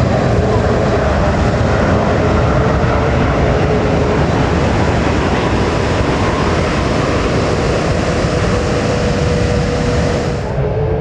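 Jet airliner engines running loud and steady, a broad roar with a faint whine held through it. The upper hiss cuts off suddenly near the end.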